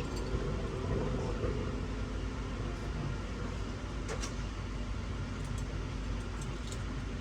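Steady hum of an airliner cabin's air-conditioning and ventilation while parked before departure, with a few light clicks about four seconds in and near the end.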